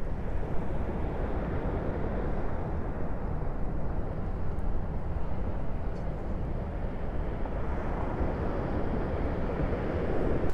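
Steady outdoor rushing noise, heaviest in the low end, with no distinct events.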